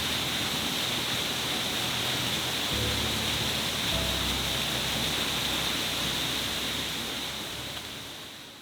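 Steady rushing of a waterfall, with soft, low sustained music notes that change every second or so underneath. Both fade out near the end.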